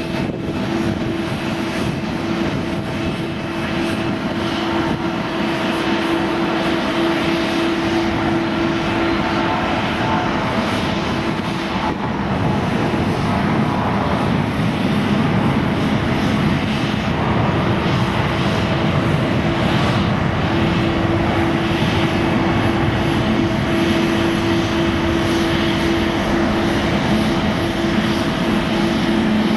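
Boeing 777-300 taking off, its twin Rolls-Royce Trent jet engines at high thrust: a steady engine noise with a held drone tone, growing louder about halfway through.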